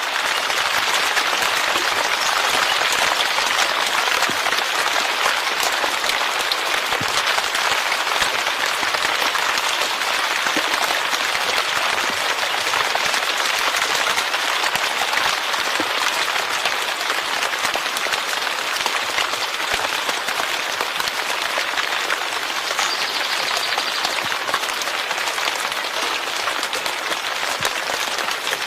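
Steady heavy rain falling, a dense, even patter of many drops that holds at the same level throughout.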